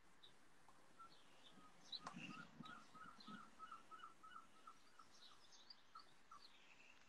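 Faint birdsong: small birds chirping, one repeating a short note about four times a second for several seconds.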